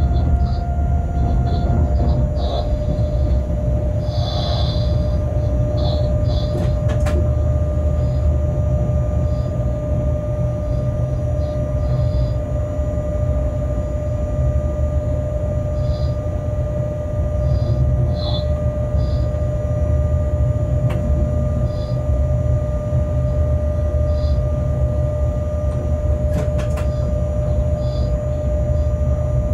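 Freight train running steadily, heard from the locomotive cab: a constant low rumble with a steady whine over it. Short high squeaks come now and then, with a couple of sharp clicks from the track.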